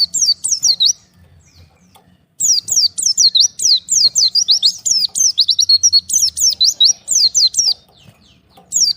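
White-eye (pleci) singing: fast runs of high, thin notes, each sliding down in pitch. A short run, a pause of about a second and a half, then a long run of about five seconds, and the song starts again near the end. This is the song of a bird separated from its flock calling to others, used as a lure call.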